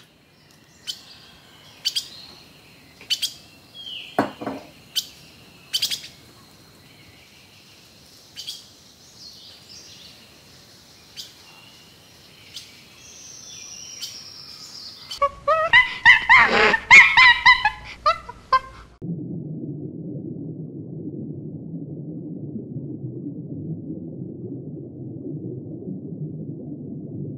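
Small birds chirping, with short separate calls for the first half, then a loud burst of rapid, overlapping calls about two-thirds of the way through. The calls stop abruptly and give way to a steady low rumble.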